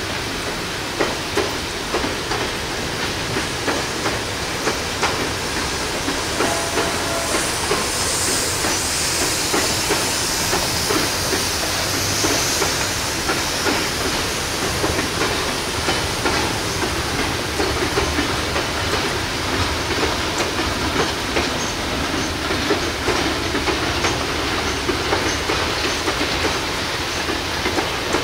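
Freight cars, boxcars and hoppers, rolling slowly past, their wheels clacking over rail joints in an uneven rhythm, over a steady hiss of rain.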